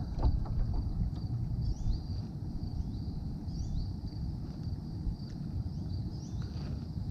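Outdoor ambience on open water: a steady low rumble of wind and water, with a bird giving short rising chirps about once a second over a thin high steady tone.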